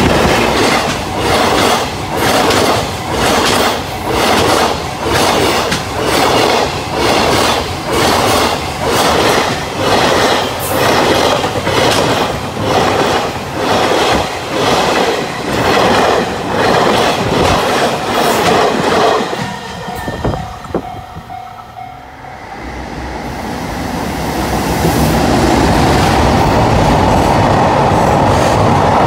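Freight train passing close by, an electric locomotive followed by tank wagons, its wheels clacking over rail joints in a regular beat about once a second. About twenty seconds in the sound drops away briefly, then a passing container freight train's rumble builds and holds steady.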